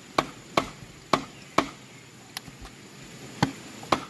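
Repeated sharp chopping strikes on bamboo: four strokes at about two a second, two light taps, then two more strokes near the end.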